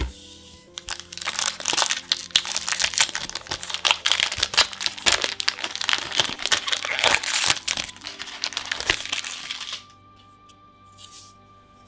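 A Magic: The Gathering booster pack's foil wrapper crinkling and crackling as it is torn open and handled, stopping shortly before the end. Soft background music with steady tones runs underneath.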